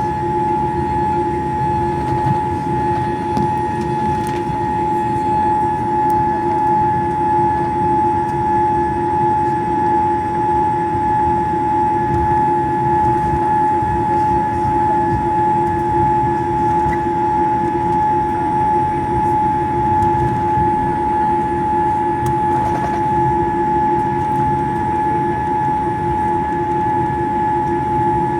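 Boeing 787-8 Dreamliner cabin noise: a steady, loud roar with a constant high whine over it, unchanging throughout.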